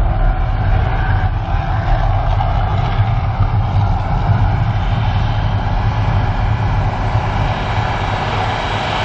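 Mirage volcano show eruption effects: a loud, steady, deep rumble, easing off slightly near the end.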